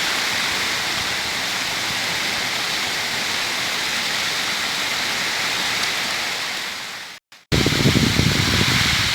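Heavy rain falling in a steady hiss. About seven seconds in, the sound cuts out for a moment, then returns louder with a low rumble underneath.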